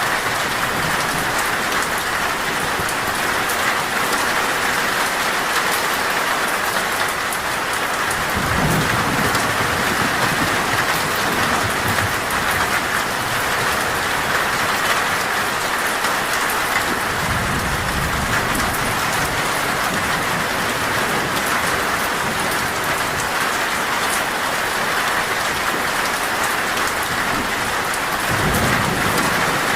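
Heavy rain falling steadily on a metal roof, with low rolls of thunder rising about 8 seconds in, again around 17 seconds, and near the end.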